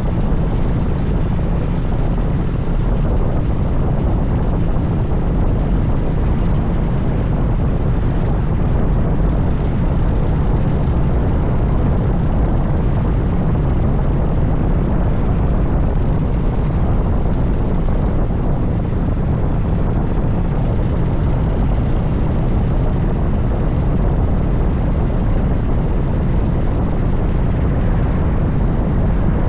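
Harley-Davidson Dyna Super Glide's V-twin engine running steadily while the motorcycle is ridden, a low, even engine sound with no marked change in pace.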